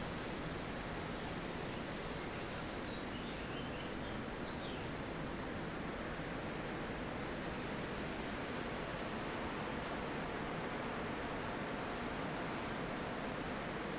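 Steady wind rushing through forest trees, with a few faint bird chirps about three to four seconds in.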